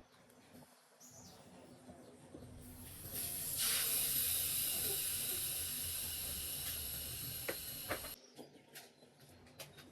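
A steady pressurised hiss, like gas or spray escaping from a nozzle. It starts about three seconds in, holds for about five seconds and cuts off sharply.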